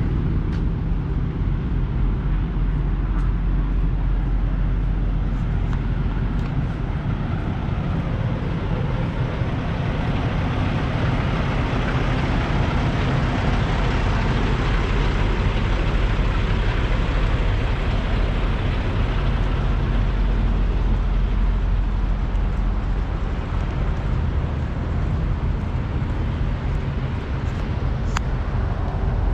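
Diesel engines of semi-trucks idling: a steady low hum, with a broader rushing noise swelling in the middle.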